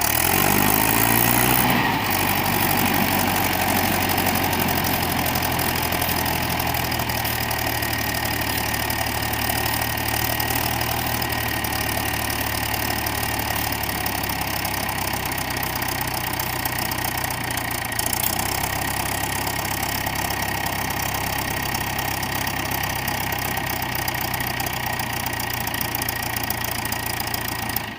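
Mahindra 415 DI tractor's diesel engine running, rising in pitch over the first couple of seconds and then holding an even speed.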